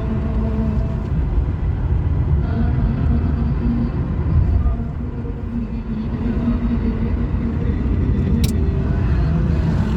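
A car engine running with low road rumble, steady throughout, with a single sharp click about eight and a half seconds in.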